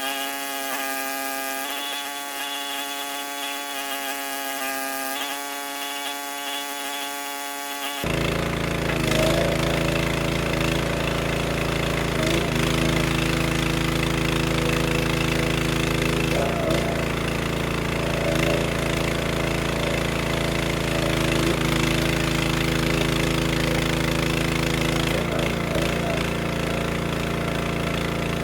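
Log splitter's small petrol engine running steadily, starting abruptly about eight seconds in; its pitch dips briefly a few times. Before that, a whining sound whose pitch steps up and down.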